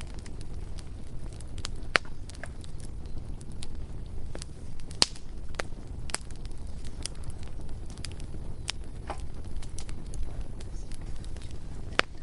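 Bonfire crackling, with irregular sharp pops and snaps, the loudest about two, five and twelve seconds in, over a steady low rumble.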